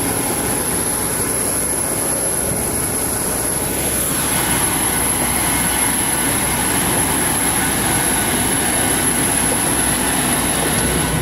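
Jet aircraft engine noise on an airport apron: a steady loud rush with a constant high whine, growing a little fuller about four seconds in.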